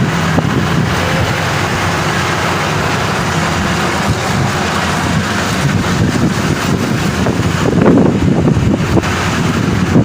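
Maxxi Bimo 102 rice combine harvester running, its engine holding a steady note under a noisy mechanical din, which swells briefly about eight seconds in.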